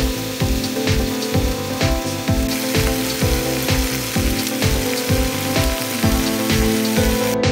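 Chicken pieces sizzling as they fry in oil in a frying pan, under background music with a steady beat of about two thumps a second. The sizzle cuts off right at the end while the music carries on.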